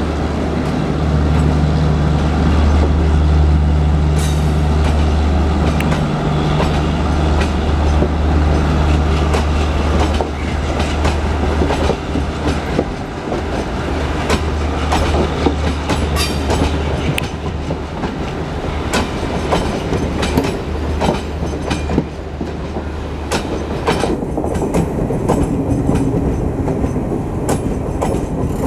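Diesel locomotive hauling the Garib Rath Express, its engine running with a heavy low throb as it pulls away under power. The coaches' wheels then clatter over the rail joints, the clicks coming thicker toward the end as the engine sound fades.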